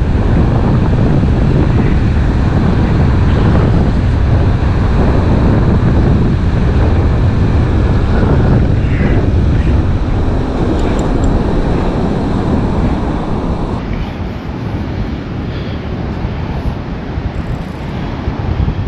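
Strong wind buffeting the microphone over surf on the shore, a steady low rumble that eases off about fourteen seconds in.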